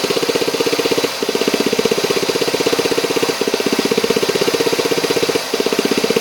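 Canister purge solenoid valve on a 2009 Ford Fiesta 1.0 idling engine, heard close up, making a fast, even tapping ("toque, toque, toque") in runs of about two seconds with brief breaks. The noise comes from vapour escaping where the valve's rubber hose has cracked and worked loose.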